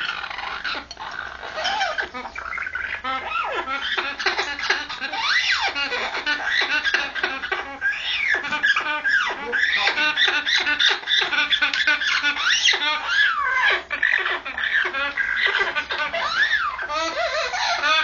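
Red-lored Amazon parrot's mating call: a continuous run of rapid squawks and chattering notes mixed with rising-and-falling whistles.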